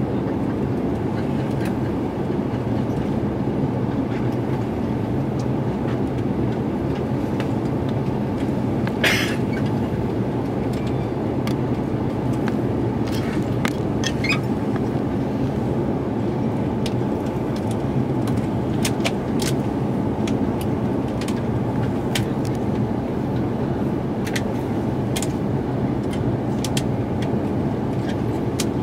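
Steady cabin roar of an Airbus A350-900 airliner in flight during its descent for landing: engine and airflow noise heard inside the cabin. A few faint clicks and one sharper clack about nine seconds in sound over it.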